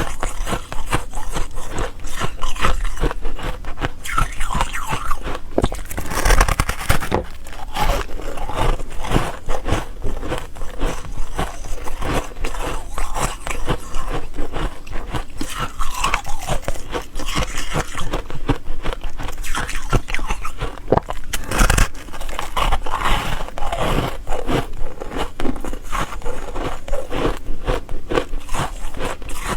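Ice being bitten and chewed: a continuous run of crunching and sharp cracks, with a few heavier crunches along the way.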